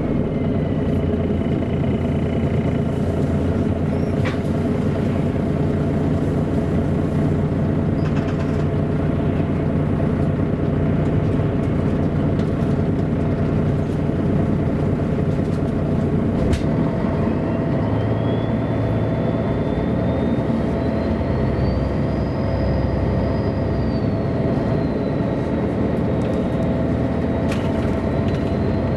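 MAN A23 articulated city bus driving, its engine running steadily over road noise. About halfway through a whine starts and climbs in pitch, levels off, then climbs again near the end as the bus gathers speed; a couple of sharp clicks are heard.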